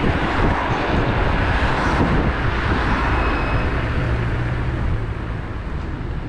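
Electric scooter on the move: a steady rumble with wind buffeting the microphone, easing off slightly near the end.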